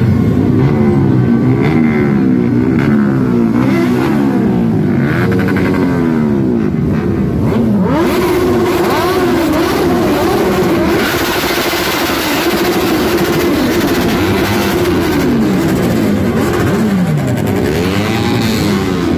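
Several large-displacement motorcycles revving their engines again and again, their pitches rising and falling in overlapping sweeps; about eight seconds in a steadier held tone joins for a few seconds.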